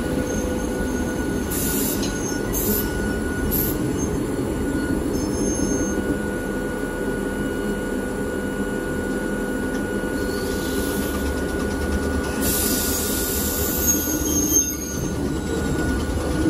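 Hakone Tozan Railway's oldest electric railcar running on the mountain line: steady running noise with a constant whine. High-pitched wheel squeals come in short bursts about two seconds in and again near the end, typical of the wheel flanges grinding on the line's tight curves.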